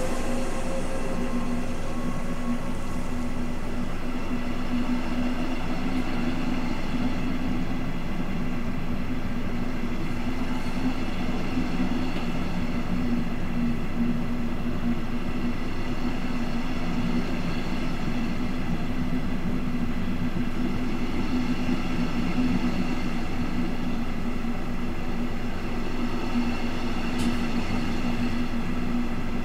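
Double-deck regional train moving past along the platform: a steady rumble with a constant low hum.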